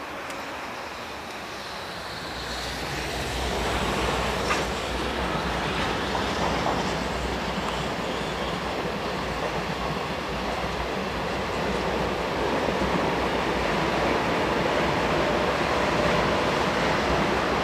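JR Freight EH500 electric locomotive hauling a container freight train past, growing louder over the first few seconds as it approaches, then a steady rumble of the container wagons' wheels rolling by on the rails.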